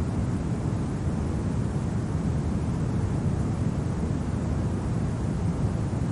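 Steady low wind blowing, an even rumble with no gusts or breaks.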